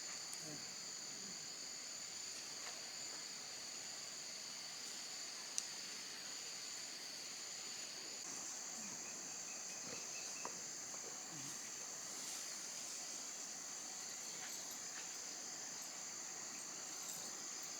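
Steady, high, unbroken chorus of insects in two shrill pitches, a little louder from about eight seconds in, with a single sharp click about five and a half seconds in.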